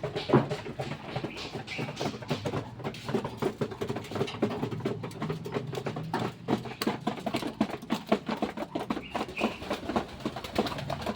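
Pigeons feeding: a dense, irregular run of quick pecking taps and scuffles.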